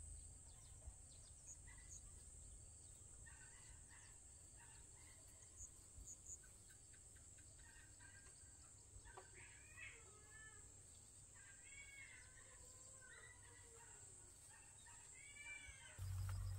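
Quiet open-air ambience with a faint steady high hiss and several faint, short bird calls in the second half. A louder low rumble starts near the end.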